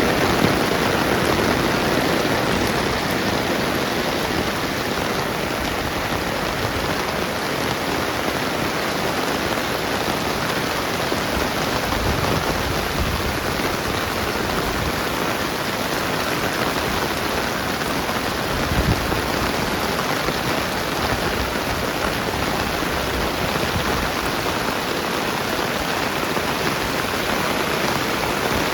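Steady rainfall, an even hiss of rain on the ground, with one brief dull bump about two-thirds through.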